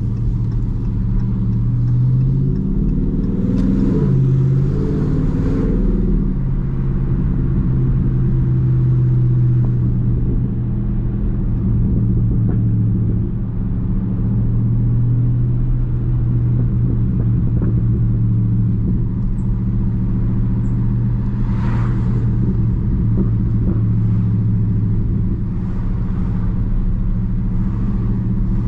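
The 6.4-litre HEMI V8 of a 2021 Dodge Charger Daytona 392 cruising with a steady low rumble. About three seconds in, the engine note rises briefly and then drops back to the steady cruise.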